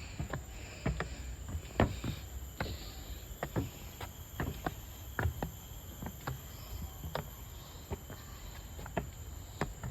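Footsteps on a forest trail, irregular and about one or two a second, over a steady high-pitched drone of insects.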